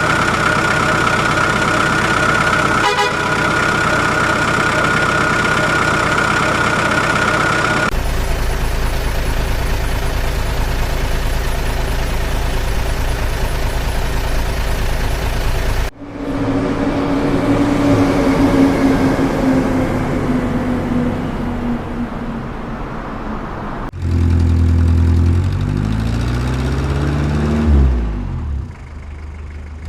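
Heavy logging trucks running, heard in a string of short clips: a steady high-pitched tone for about the first eight seconds, then steady engine noise, then a truck engine note that slowly falls, and near the end an engine revving up and dropping back down.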